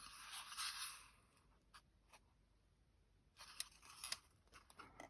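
Near silence with faint handling sounds of craft items on a table: a soft rustle in the first second, then a few light clicks and taps.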